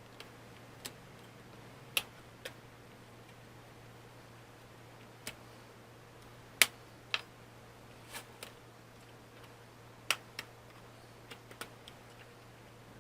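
Irregular sharp clicks and taps of small tools and parts being handled on a Chromebook's case, about fifteen of them, the loudest a little past the middle, over a faint steady low hum.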